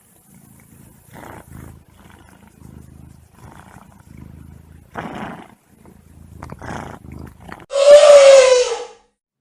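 A tiger grumbling in short low spells, then giving one loud, rough roar of about a second near the end.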